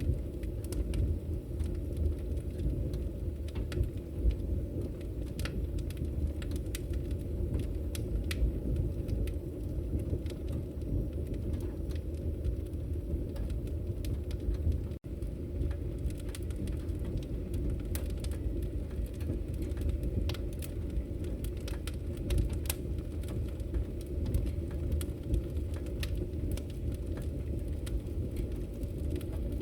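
Wood fire burning in a fireplace: a steady low rumble with frequent sharp crackles and pops. The sound drops out for an instant about halfway through.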